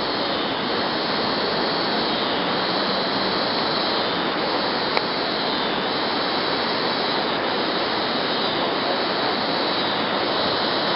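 Flooded river water rushing past in a steady, loud roar of noise.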